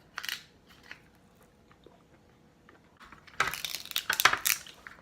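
Alaskan king crab leg shells being cracked and broken open by hand: a few short crackles, then a dense run of sharp crunches and crackles about three and a half seconds in.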